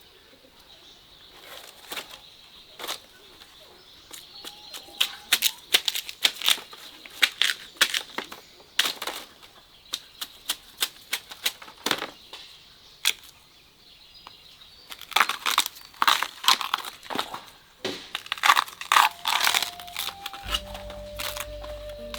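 Dry fallen leaves and twigs crackling and snapping in irregular clusters of sharp crunches. Music comes in near the end.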